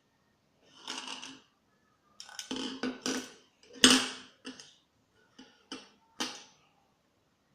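Small hard objects being handled and set down: a series of clicks and knocks with some scratchy rustling, the loudest knock about four seconds in, then a few lighter clicks.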